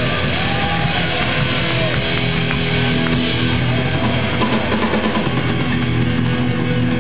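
Punk rock band playing live, loud: distorted electric guitar, bass and drum kit, with no vocals.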